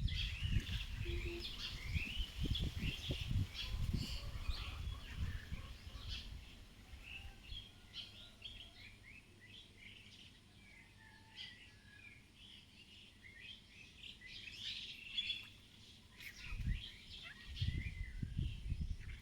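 Several birds chirping with many short, high calls throughout. Wind buffets the microphone in low rumbling gusts, heaviest in the first few seconds and again near the end.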